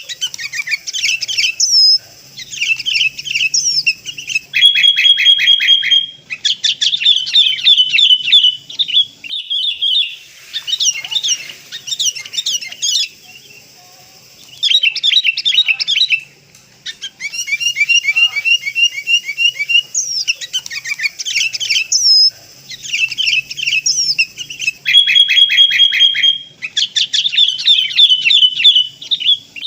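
Sooty-headed bulbuls calling loudly in a lure recording: bursts of rapid chattering trills and clear whistled notes, broken by short pauses, with the same sequence coming round again about twenty seconds later.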